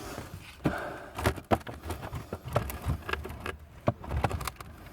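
Light, irregular knocks and scrapes from a box with a trapped bird inside being eased slowly down a wall.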